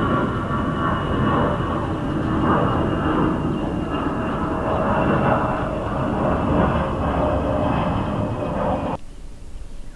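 Jet airliner engines running loud at departure, a deep roar with a steady high whine over it. It cuts off abruptly about nine seconds in, leaving quiet outdoor ambience.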